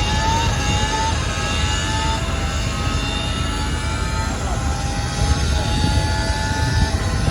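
Car engines running in the street: a steady low rumble with thin whining tones above it that drift slightly in pitch.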